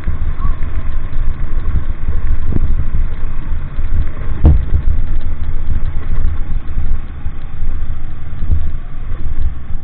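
Motor vehicle running, a steady low rumble with a few thumps over it, the loudest about four and a half seconds in.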